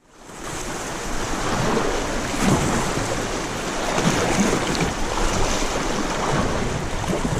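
Rushing river water with wind noise on the microphone, fading in over the first second, with a few soft low thumps.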